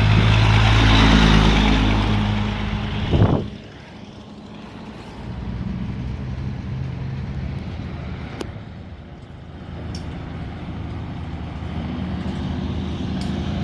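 Heavy truck's diesel engine running loudly, then dropping away after a short sharp burst about three seconds in, leaving a quieter steady engine sound.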